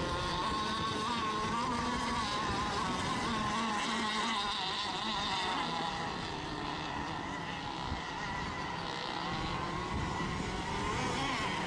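Several radio-controlled racing boat engines running together, their high whine wavering up and down in pitch as the boats circle during the milling period before a race start.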